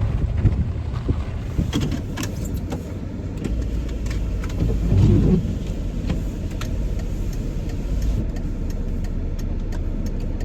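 Car heard from inside the cabin while driving, with a steady low engine and road rumble that swells briefly about halfway. Scattered light clicks come in the first seconds, and a run of regular ticks near the end.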